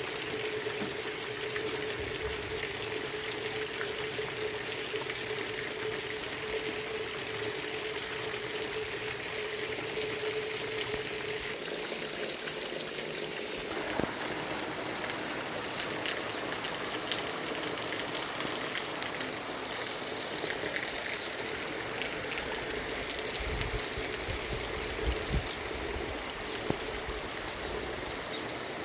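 Steady rush of heavy rain and running water, with a faint steady tone under it that fades about halfway through.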